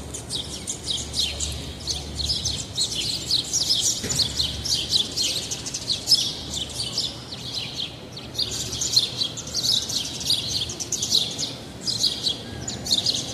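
A crowd of small birds chirping at once, a dense, continuous chatter of short high chirps that eases briefly about eight seconds in.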